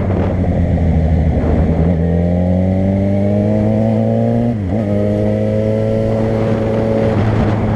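Car engine and road noise while driving: about two seconds in, the engine pitch climbs steadily as the car accelerates, drops sharply with a gear change about four and a half seconds in, then holds steady.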